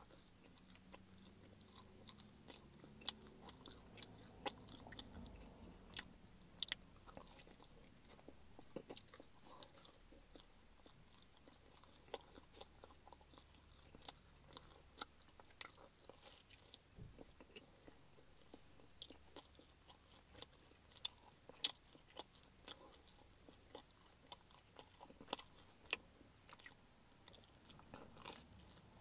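Close-up chewing and biting of pizza, with many short, sharp mouth clicks and smacks throughout.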